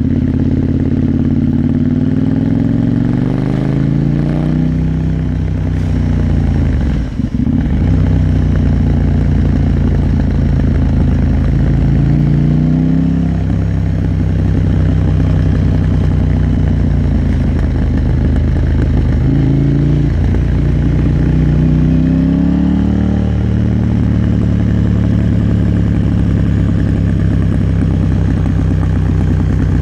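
KTM 890 Duke R's parallel-twin engine running under way: its pitch climbs as the revs rise over the first few seconds, drops sharply about seven seconds in, then holds steady, with several more rises in revs later on.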